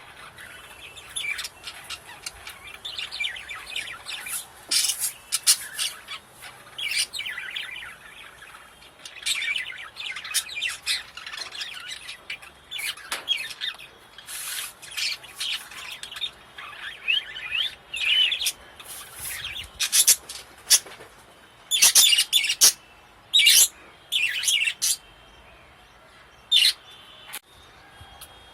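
Budgerigars chirping and chattering: a continuous run of quick warbling chirps with sharp, louder calls scattered through, the loudest of them in the second half.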